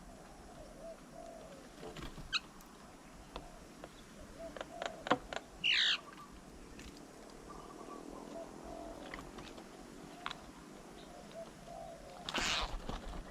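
Birds at a feeding table: low cooing calls, a loud falling call about six seconds in, scattered sharp taps, and a short noisy burst near the end.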